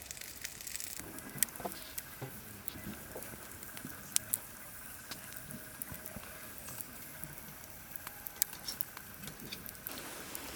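Wood fire crackling, with irregular sharp pops and light pattering.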